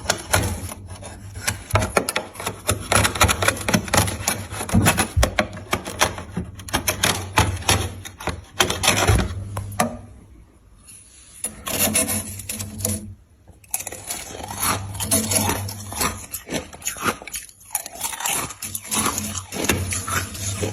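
Ice being chewed: dense, rapid crunching and crackling, with two short pauses about halfway through.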